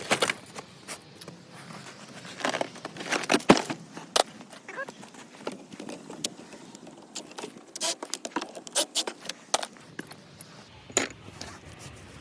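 Metal hand tools clinking and clicking irregularly, a 15 mm socket and wrench being handled and worked on the front brake caliper, in clusters of sharp clinks.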